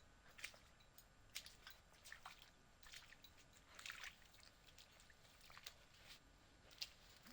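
Faint, scattered wet clicks and drips from mangrove mud and water, one or two a second, over near silence.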